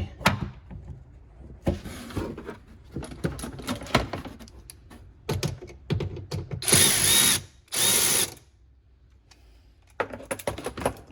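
A power tool runs in two short bursts of about a second each, about seven and eight seconds in, between scattered clicks and knocks of tools and parts being handled.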